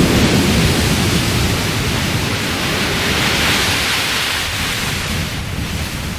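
Loud, steady rush of water from flooding, with no distinct events in it, easing slightly toward the end.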